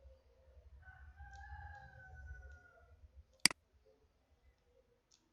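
A single sharp computer mouse click about three and a half seconds in. Before it, a faint drawn-out call in the background, lasting about two seconds and sliding slightly down in pitch at the end.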